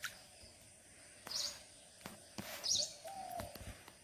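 Birds calling in the trees: two short, high chirps about a second and a half apart, with a lower drawn-out call near the end.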